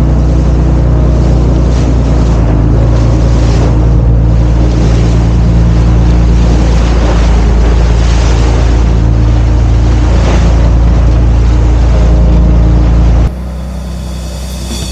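A fishing boat's engine running steadily under way, with a steady low hum and a hiss of wind and water over it. It cuts off abruptly near the end, giving way to music with drums.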